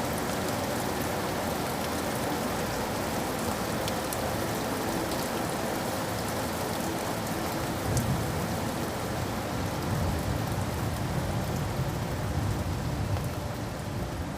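Steady rain falling, with scattered drop ticks. A deeper low rumble swells in about halfway through.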